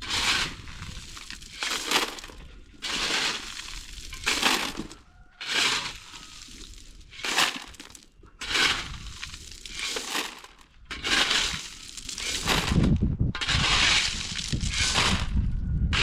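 Shovel scraping and crunching through sand and gravel ballast in repeated strokes, roughly one every second or so, as concrete is mixed by hand. The strokes run together in the last few seconds, with a low rumble underneath.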